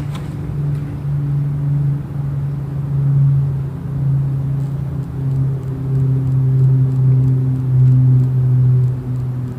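Briggs & Stratton Model FH single-cylinder engine running steadily just after a cold start, its speed wandering slightly, and slowly growing louder.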